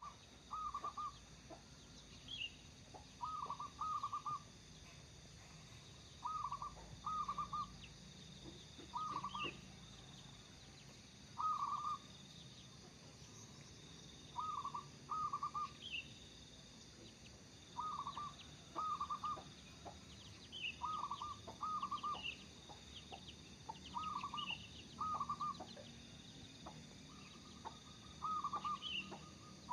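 Local zebra dove (perkutut) in full, lively song: short cooing phrases, often two in quick succession, repeated every two to three seconds. Faint higher chirps from another small bird sound in between.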